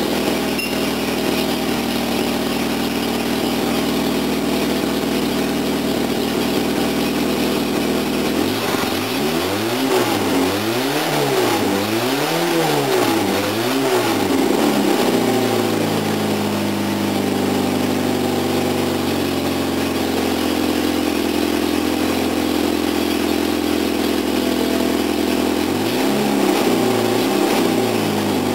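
Toyota 4K four-cylinder engine running on a newly fitted Weber 32/36 DGV carburettor: a steady idle, then revved up and down about four times from around nine seconds in, settling back to a steady speed, with a few quick blips of the throttle near the end.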